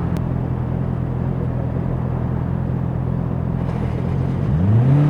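Honda CBR650R's inline-four engine running at a steady speed, then revving up with a quick rise in pitch about four seconds in and holding at the higher note.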